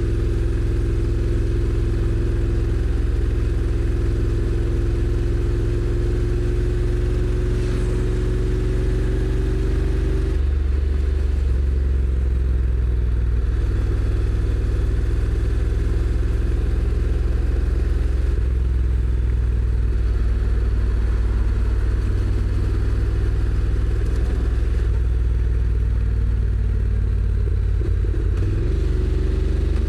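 Honda NC750X parallel-twin engine running under way, its note rising slowly, then changing about ten seconds in and running steadily after that.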